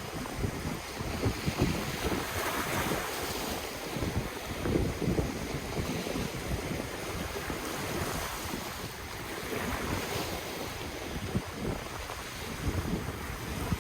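Ocean waves washing onto the shore, the surf swelling twice, with wind buffeting the microphone in low rumbles.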